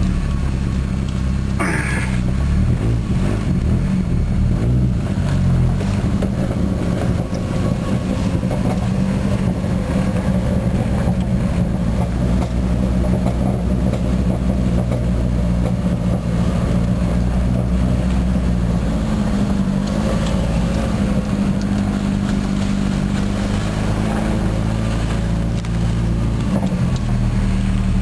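Ford Mustang's turbocharged 2.3-litre inline-four running steadily through a new, largely unmuffled exhaust, a loud low drone. There is one brief sharp knock about two seconds in.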